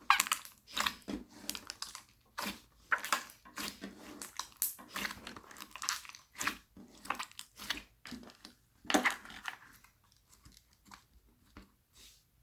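Slime being mixed, kneaded and pressed by hand, with irregular crackling pops and squishes that grow sparser near the end and then stop.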